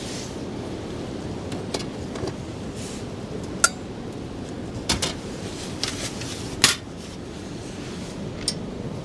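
Metal camp cookware and utensils clinking and knocking together as they are handled: several sharp, separate clanks, the loudest a little past halfway, over a steady rush of wind.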